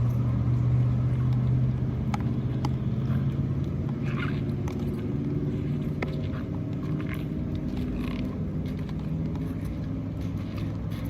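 A motor vehicle's engine running as a steady low drone that slowly fades, with a few faint clicks over it.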